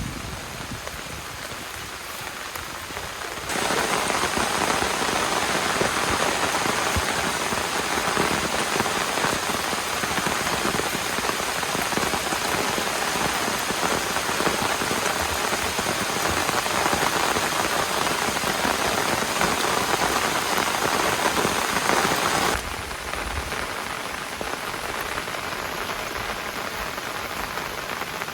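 Heavy rain falling steadily, a dense even hiss of drops. It turns sharply louder a few seconds in and drops back just as suddenly a few seconds before the end.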